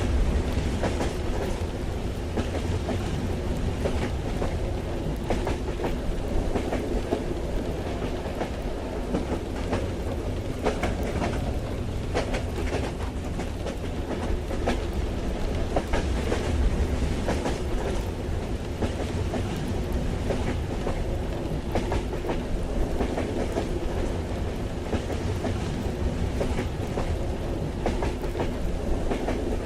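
Train carriage heard from inside while running on the rails: a steady low rumble with rhythmic clickety-clack, and light rain ticking against the carriage as many small scattered taps.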